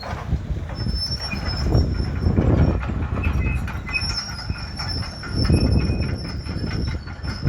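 Blackpool tram running on its rails, a low rumble with a steady high metallic wheel squeal setting in about a second in.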